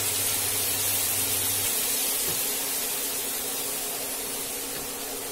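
Chopped onion, ginger, garlic and green chillies sizzling steadily in hot oil in a non-stick pan. A low hum underneath cuts out about two seconds in.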